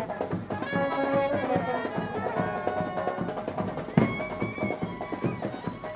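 Traditional Indian wedding band music: a loud reedy, brass-like melody over busy drumming, with a sharp loud drum hit about four seconds in followed by a high held note.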